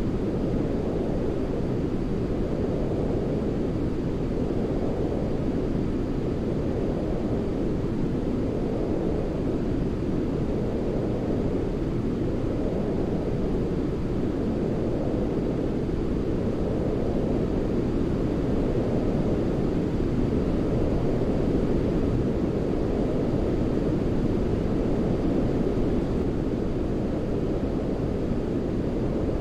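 Continuous sleep noise for soothing a baby: a steady, deep, rumbling hiss with its weight low down and almost nothing in the highs, like brown noise, swelling very slightly every few seconds.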